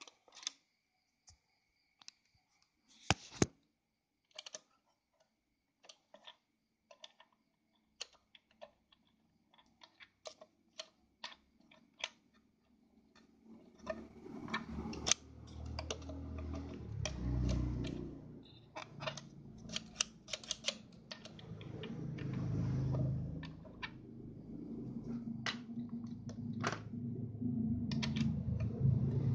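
Scattered light clicks and taps of sewing-machine parts being handled as a pattern cam is fitted into a Yamato 673 zigzag sewing machine. From about halfway there is a low, uneven rumble of handling noise with more clicks.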